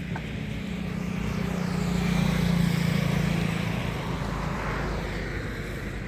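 A motor vehicle passing by: its engine hum and road noise swell to a peak a little over two seconds in, then fade away.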